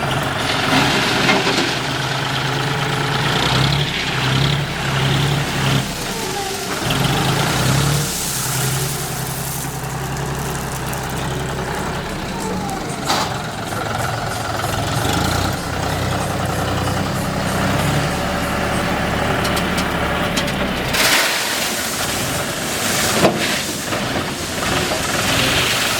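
Tractor engine running, its speed rising and falling as the machine works, with a few sharp knocks.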